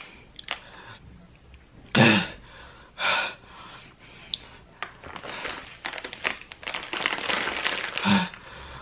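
A person's sharp gasps and heavy, hissing breaths while their mouth burns from ghost pepper chips. Two loud gasps come about a second apart, followed by a longer stretch of crackly, hissing noise and a short voiced grunt near the end.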